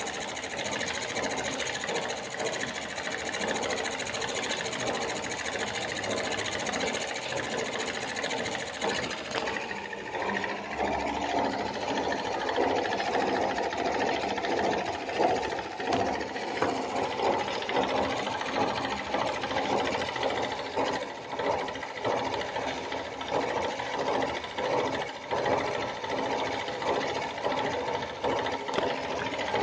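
Homemade model steam engine running with a fast, steady mechanical clatter. About ten seconds in, the sound becomes brighter and more uneven.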